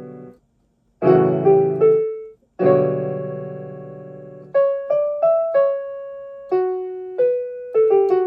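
Piano music. Full chords are struck about a second in and again a couple of seconds later, each left to ring out, then a slow line of single notes follows.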